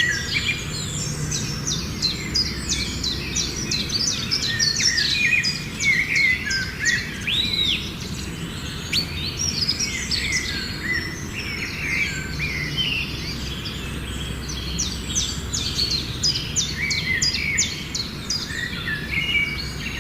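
Many birds chirping and calling together, a busy chorus of short, rapid chirps and whistles over a low background hum.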